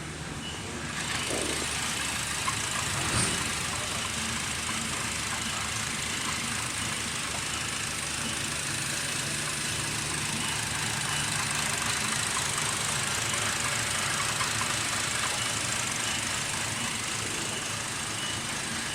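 Honda Civic engine running steadily, getting a little louder about a second in and then holding an even note.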